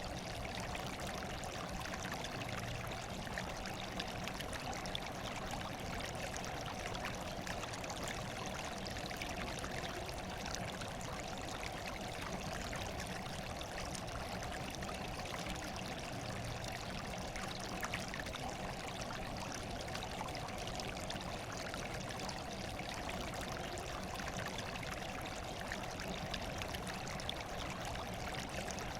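Running water, a steady trickling and pouring flow like a small stream, with faint scattered droplet ticks.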